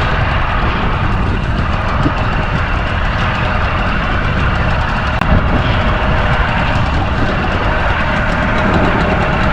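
Strong wind buffeting the microphone: a loud, steady, blustery rumble.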